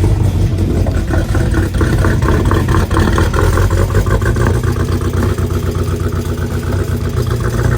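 Dodge Hellcat's supercharged 6.2-litre HEMI V8 running at a rough, uneven idle just after a jump-start, with choppy popping pulses: the engine is misfiring.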